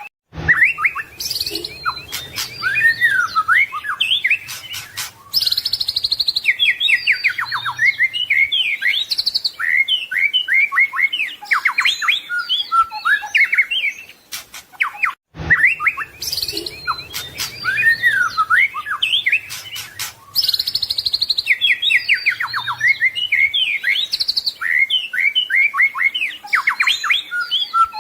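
White-rumped shama (murai batu) singing a rich, varied song of rapid whistles, trills and sweeping notes. The same roughly 15-second passage repeats twice, with a brief break between the two.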